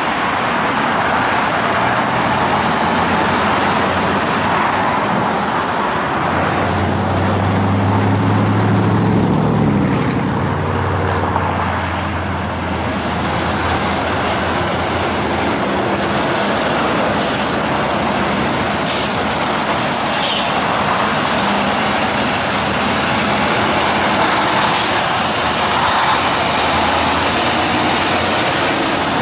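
Highway traffic with big-rig semi trucks passing: a steady rush of tyre and engine noise, with one truck's engine rising to the front about a quarter of the way in and then fading as it goes by.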